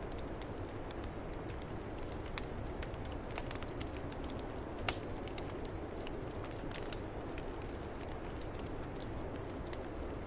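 Wood fire crackling, with scattered small pops and one sharper pop about five seconds in, over the steady low rush of snowstorm wind.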